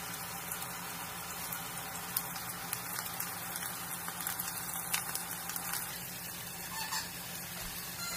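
Chicken breasts frying in oil in a pan: a steady sizzle with small crackles and pops scattered through it.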